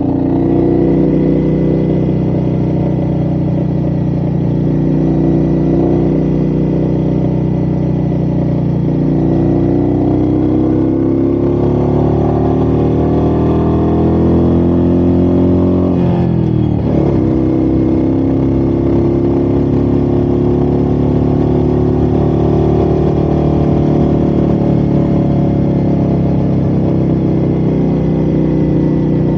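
Royal Enfield Meteor 350's single-cylinder engine running under way, its pitch rising and falling with the throttle. About 16 seconds in the pitch drops sharply and climbs back.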